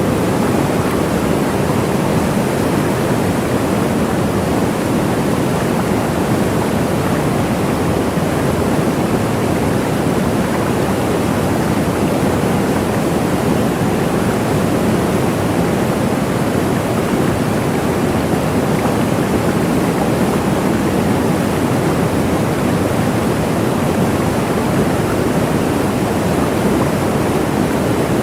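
Waterfall: water falling and rushing, a steady full roar with no breaks or changes.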